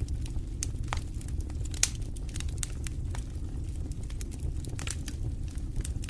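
Wood fire in a fireplace crackling: irregular sharp pops, several a second, over a steady low rumble of the flames, with one louder pop about two seconds in.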